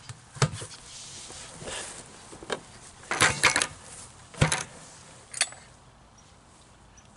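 Clacks and knocks of hard objects being handled during hand work on the mower's oil fill: one knock near the start, a quick cluster of clacks about three seconds in, then two more single knocks, with little in between.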